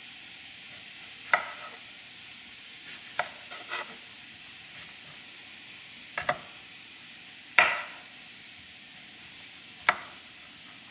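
Food preparation: about six sharp knocks of a knife or utensil against a kitchen surface, spaced a second or two apart, the loudest just past the middle with a brief ring.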